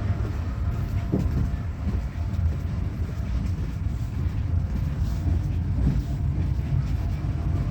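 Yal Devi express train running: a steady low rumble of the carriage rolling along the rails, heard from inside the train.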